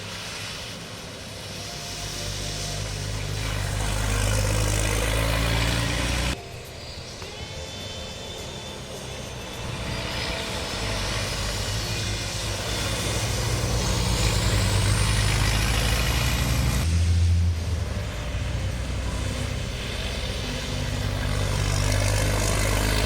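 Racing trucks' heavy diesel engines running hard at speed, growing louder in long swells. The sound cuts off abruptly twice, about six and seventeen seconds in, and a high whine rises through the middle part.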